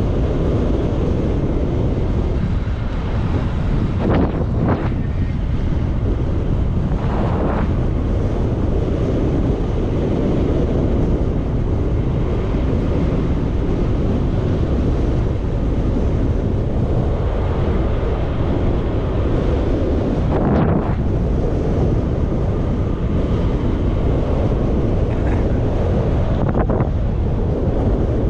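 Wind buffeting the microphone of a camera riding along on a moving road bike: a steady, loud low rumble of rushing air, with a few brief swells.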